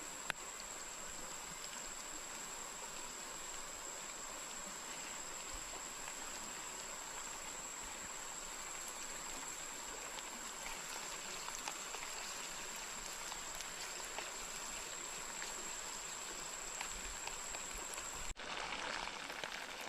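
Small river running steadily, an even rush of water under a constant high-pitched tone. About a second and a half before the end, the sound cuts off suddenly and the high tone stops.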